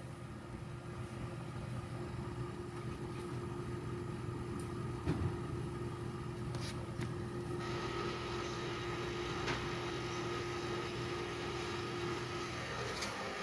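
Air conditioner running with a steady mechanical hum and a held tone that stops near the end, with a few faint clicks.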